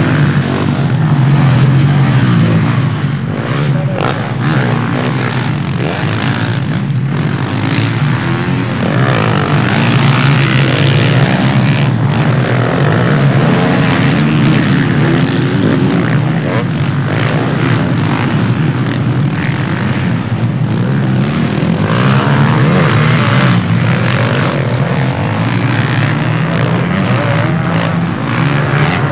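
Several motocross motorcycle engines revving and racing, loud and continuous, their buzzing pitch rising and falling again and again as the bikes accelerate and shift.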